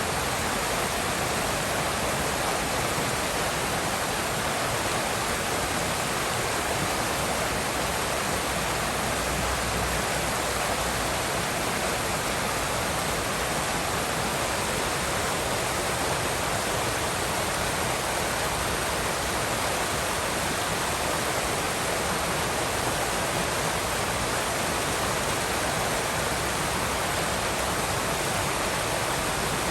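A forest river's flowing water, a steady, even rushing.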